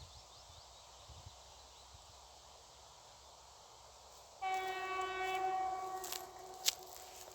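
Diesel locomotive horn giving one steady blast that starts abruptly about four seconds in and fades after about two seconds, followed by a few sharp clicks near the end.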